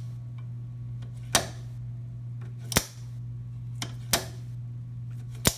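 Buell XB rear passenger footpeg being folded up and down, its spring-loaded detent ball snapping it into each position: four sharp clicks about a second and a half apart, over a steady low hum.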